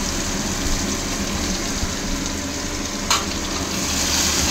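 Chopped onion sizzling steadily as it fries in hot oil in a pan. There is one sharp click about three seconds in.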